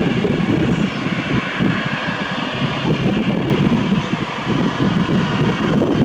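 Airbus A319's twin jet engines at takeoff power: a loud, steady rumble with a faint high whine above it.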